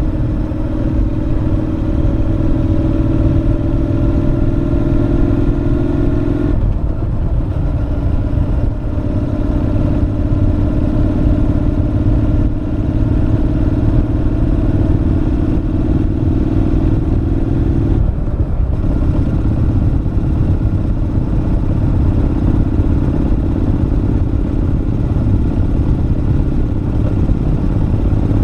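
Honda NC750X parallel-twin motorcycle running through a Moriwaki aftermarket muffler while being ridden, heard as from the rider's helmet. The exhaust note holds steady and climbs slowly, with two sudden drops in pitch, about 6 and 18 seconds in, over a low rumble of road and wind noise.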